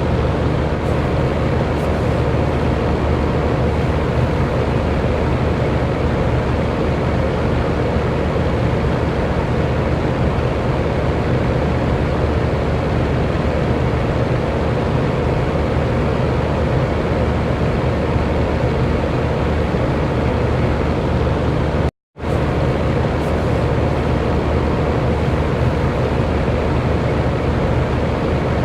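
Electric fan running steadily: an even rushing noise of moving air over a low motor hum. About three-quarters of the way in, the sound cuts out completely for a split second and then resumes unchanged.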